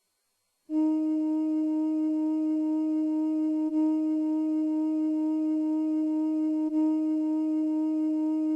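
Synthesized software-instrument note from Guitar Pro playback, a flute- or organ-like tone held steady on one pitch. It enters about a second in and is restruck on the same pitch twice, about three and six seconds in.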